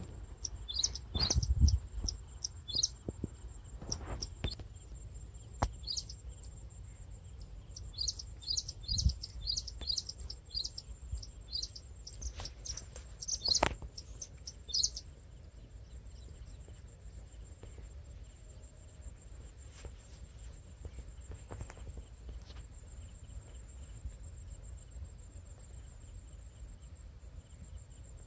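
Small birds chirping in quick runs of short, high, falling calls, busiest in the first half. Under them runs a steady thin high insect drone and a low rumble.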